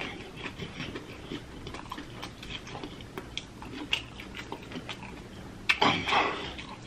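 Close-miked chewing and wet lip-smacking of a mouthful of sauce-covered chicken wing, heard as scattered small clicks. A louder, noisier burst comes about six seconds in.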